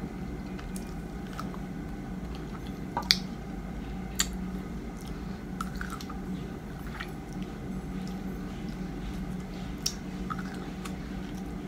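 A person biting into and chewing small soft baby mango fruits close to the microphone, with wet, squishy mouth sounds and a few sharp clicks, the loudest about three seconds in. A steady low hum runs underneath.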